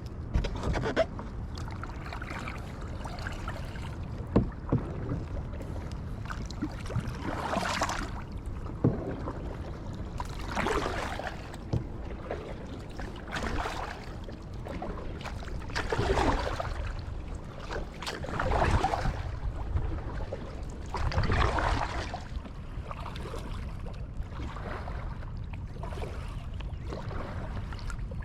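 Kayak paddle strokes through the water, a swish about every two and a half seconds in the second half, over a low steady rumble. A few sharp knocks come in the first half.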